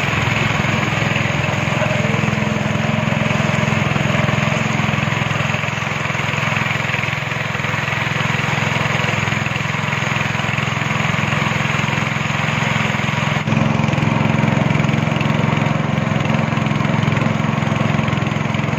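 Speedboat engine running steadily while the boat is under way, with a brief dip about two-thirds in.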